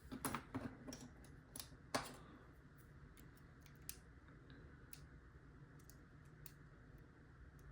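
Faint, scattered metallic clicks and ticks of a lock pick and tension wrench working in an Abus padlock's keyway. A cluster of sharper clicks comes in the first two seconds, followed by sparse light ticks.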